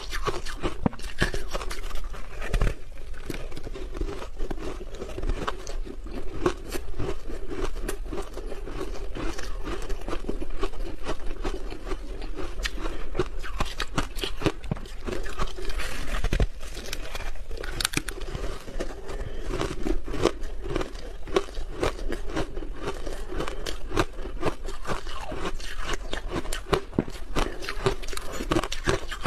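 Crunchy ice being bitten and chewed close to the microphone, a dense, irregular stream of crunches and crackles with no pause.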